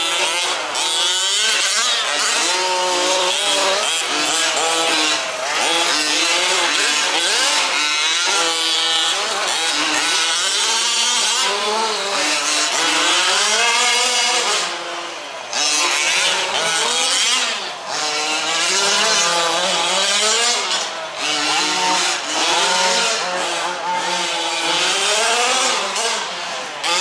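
Several 1/5-scale RC off-road trucks racing, their small two-stroke petrol engines revving up and down over one another in a continuous buzz, with brief lulls as the throttles come off.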